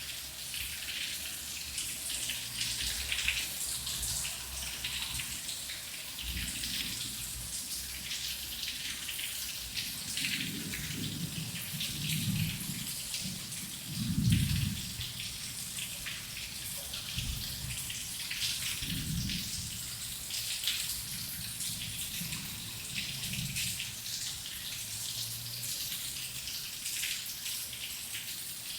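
Heavy rain falling, a steady hiss full of drop impacts. Low rumbles of thunder come and go around the middle, the loudest about halfway through.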